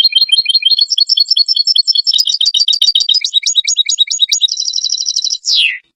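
European goldfinch song: a fast run of short, high twittering notes, turning into a buzzy trill near the end and closing on one falling note before it stops suddenly.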